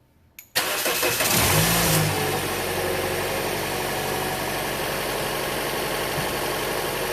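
Toyota 2ZR-FE 1.8-litre four-cylinder engine cranked and catching about half a second in, with a brief rise in revs, then settling into a steady idle. It runs without misfire now that the burnt gasket behind a cylinder 4 misfire has been replaced.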